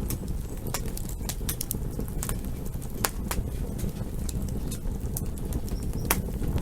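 Campfire burning: sharp crackles and pops from the burning wood, several a second, over a steady low rumble of the flames.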